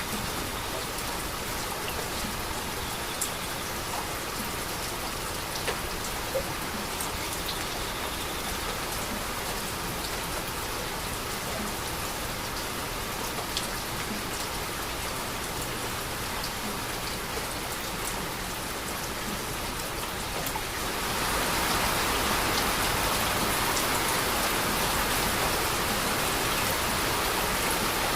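Steady rain falling, a dense hiss with scattered sharp drop ticks; the rain grows heavier and louder about three quarters of the way through.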